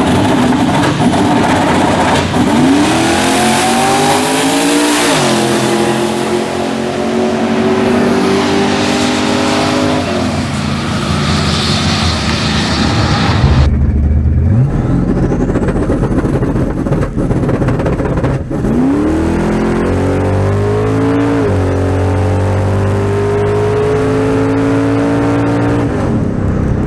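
Drag-race car launching and accelerating hard down the strip: the engine note climbs steeply, drops back at a gear change, then holds and climbs slowly as the car pulls away. This happens twice.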